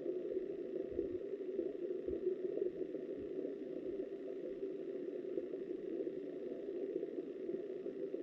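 Muffled, steady rush of flowing river water picked up by a submerged camera, with a few faint low knocks in the first few seconds.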